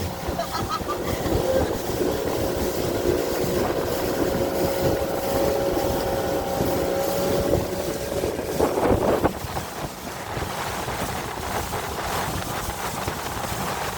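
Small motorboat's engine running steadily under way, with a held whine and water and wind noise. About nine seconds in there is a brief louder burst, after which the engine sound is lower.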